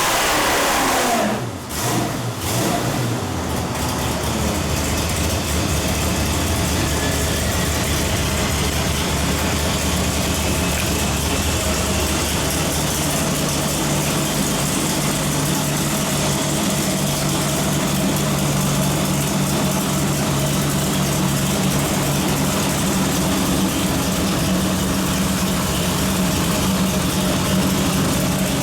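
632 cubic-inch big-block V8 marine engine on a dyno coming off high revs: its pitch falls sharply within the first two seconds as the throttle closes, then it settles into a steady idle.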